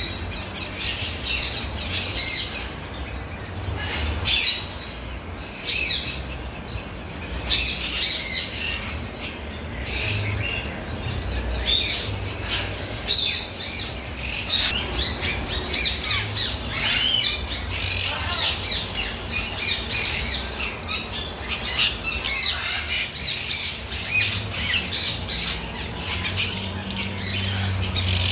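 Many birds calling over one another, a dense run of short, high calls with no pause, over a low steady rumble.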